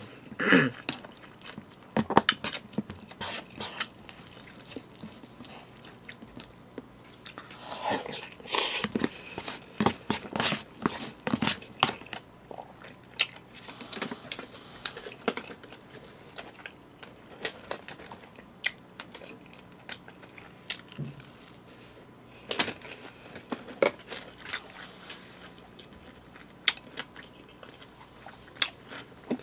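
Close-miked chewing and biting of food, with irregular crunchy bites and mouth clicks.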